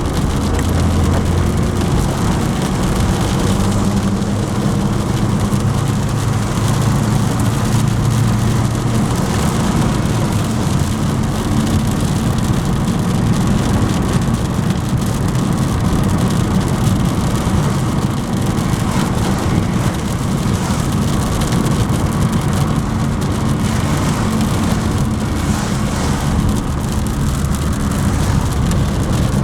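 Honda Jazz driving in heavy rain: steady engine and road noise with rain hissing on the car.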